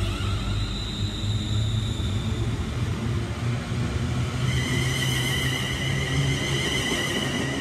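London Northwestern Railway electric multiple unit passing along the platform: a steady low rumble of wheels on rail, joined about halfway through by a high, steady electric whine.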